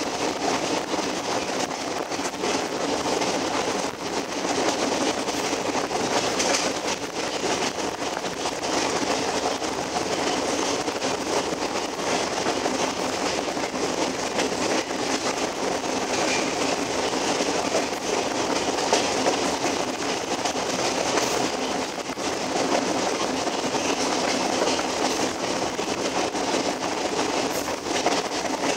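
Alaska Railroad passenger train running at speed, heard from an open car window: a steady rush of wheels on the rails and passing air, with faint clicks of the wheels over the track.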